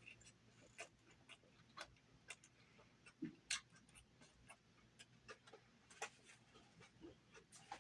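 Near silence broken by faint, irregular clicks and smacks of a person chewing food close to the microphone.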